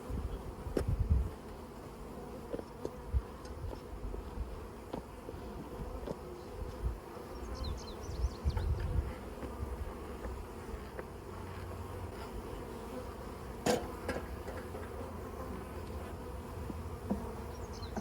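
A mass of honey bees buzzing steadily as a package colony is shaken into a new hive box, with wind rumbling on the microphone. A single sharp knock about fourteen seconds in.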